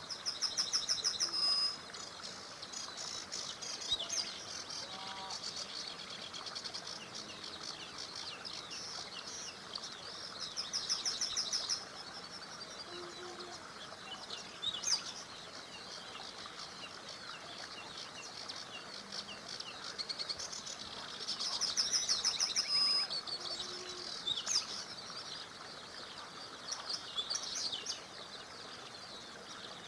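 Songbirds singing. One bird repeats a loud, fast trilled phrase three times, about ten seconds apart, among shorter chirps from others, over a steady hiss of flowing river water.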